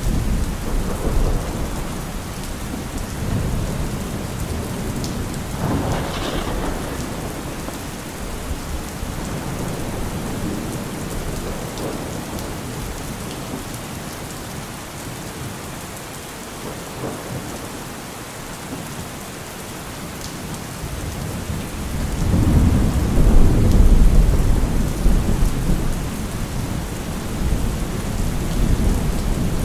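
Heavy rain pouring steadily, with rolling thunder. A sharper crack comes about six seconds in, and a long, deep rumble swells up near the end.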